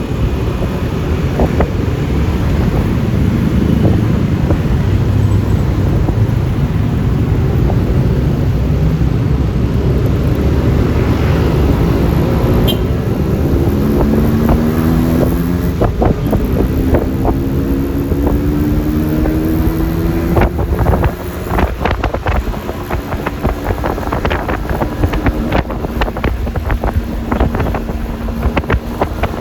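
Riding a Yamaha Lexi LX 155 scooter: wind rushing on the microphone over steady road noise. Through the middle an engine note rises steadily in pitch, and over the last several seconds there are uneven knocks and buffeting.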